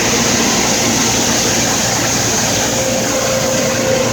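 Car wash blow dryers running: a loud, steady rush of air with a faint steady hum underneath.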